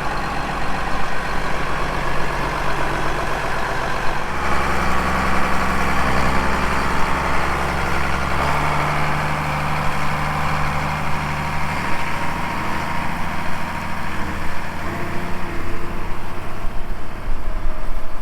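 A farm vehicle's engine running steadily, its pitch shifting to new levels about four, eight and a half, and twelve seconds in.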